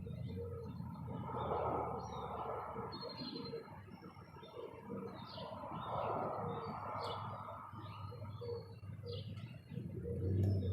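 Small wild birds chirping over and over, short high chirps and brief whistled notes overlapping, over a steady rushing background noise.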